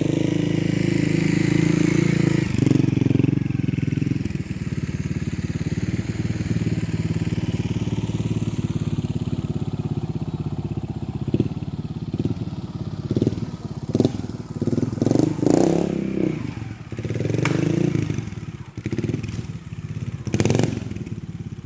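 Trials motorcycle engine ticking over, then given short throttle blips several times in the second half, with knocks and clatter as the bike works over rough ground.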